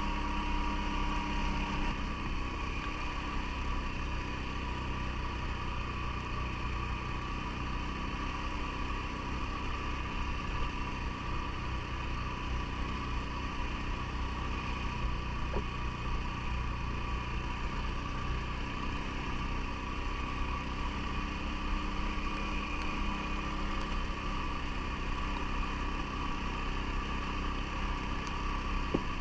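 CFMoto ATV engine running steadily at an even speed, its note shifting slightly about two seconds in.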